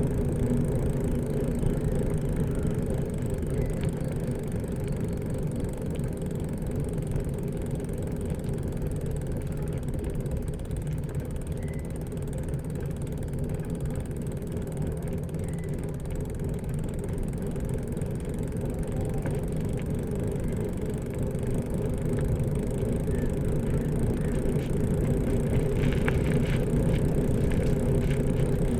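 Steady low rumble of a bicycle being ridden along a road, tyres rolling and the frame and drivetrain running, with a few sharp clicks and rattles near the end.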